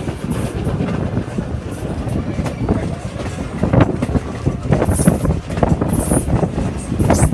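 Passenger train running on the track: a steady rumble with clattering and knocking from the wheels and cars.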